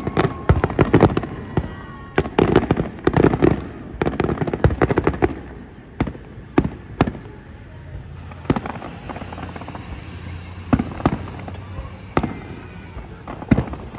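Aerial firework shells bursting: a rapid string of bangs and crackles for the first half, then separate booms about a second apart.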